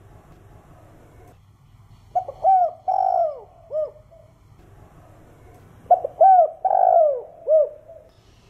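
Spotted dove (Streptopelia chinensis) cooing: two matching phrases a few seconds apart, each a quick run of short arched coos around one longer slurred coo.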